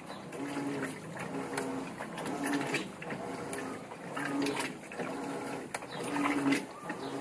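Electrolux LM 08 top-loading washing machine agitating a full load: the motor hum swells and fades about once a second as the agitator reverses, with water sloshing and small clicks in between.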